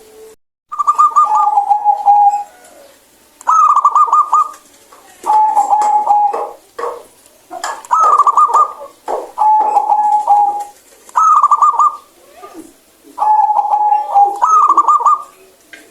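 Zebra dove (perkutut) cooing: a clear, loud song of about eight repeated phrases, each a quick rolling run of notes followed by a held lower coo, coming every couple of seconds.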